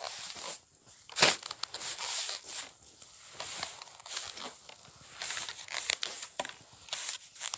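Footsteps crunching through deep snow: irregular crisp crunches, one every half second to a second, with the loudest about a second in.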